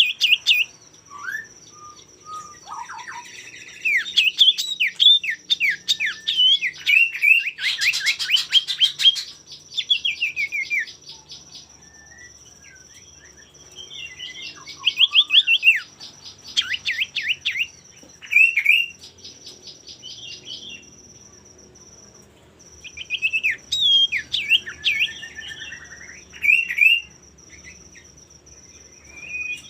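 Male common iora (cipoh) singing in repeated bursts of quick, sweeping chirps and chattering phrases, separated by short pauses. A steady high whine runs underneath and breaks off briefly past the middle.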